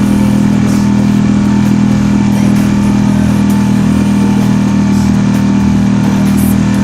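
Marlin 5-horsepower outboard motor running at a steady speed, pushing the boat along with an even, unchanging engine note.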